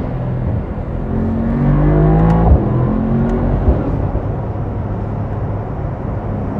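Mercedes-AMG SL 63's twin-turbo V8 accelerating under way: the pitch climbs for about a second, breaks at an upshift about two and a half seconds in, climbs again briefly, then settles into a steady run.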